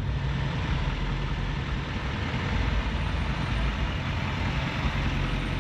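A truck engine running steadily, a low rumble under a broad noisy hiss.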